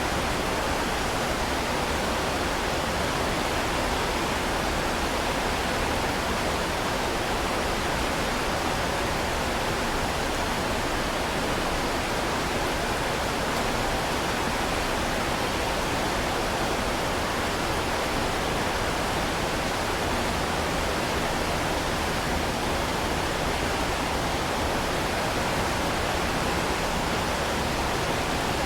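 Heavy rain falling in a steady, even hiss, with no separate drops, thunder or changes standing out.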